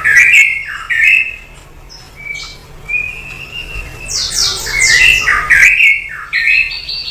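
A bird calling in bursts of shrill squawks and chirps, some sweeping down in pitch. They are quieter for a couple of seconds in the middle, then come thick and fast again from about four seconds in.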